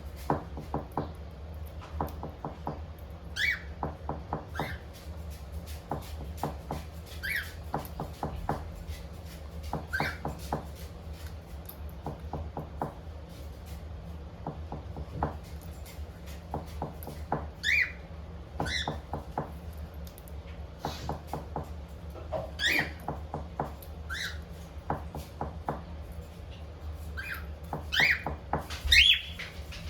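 Pet cockatiels giving short chirps and whistled calls every second or two, the loudest few near the end, with many soft clicks between them over a steady low hum.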